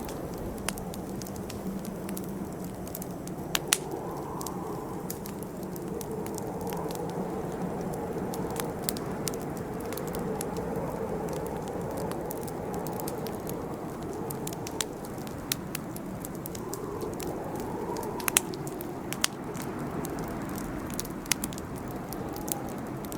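Wood campfire burning: a steady, wavering low rush of flames with scattered crackles and sharp pops, a few louder pops standing out, two close together about three and a half seconds in and one near the end.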